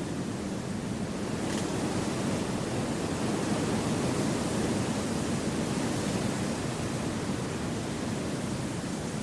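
Wind blowing through a forest: a steady rushing noise that swells slightly in the middle and eases again.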